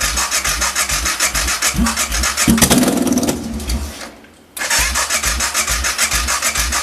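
Electric starter cranking a BMW F650GS engine in two long bursts, with a short pause about four seconds in. The engine does not settle into running, a sign of the faulty fuel pump the seller reports.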